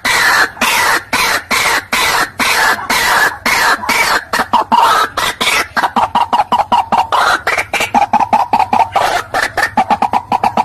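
White-breasted waterhen calling: a fast, unbroken run of harsh repeated notes, several a second, whose pitch slides down over the first half and then holds steady lower.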